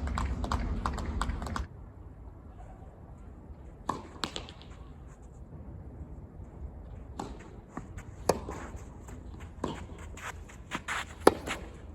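Sharp knocks and taps of tennis play on a court: a tennis ball bouncing and being struck by rackets, with footsteps, the loudest knock near the end.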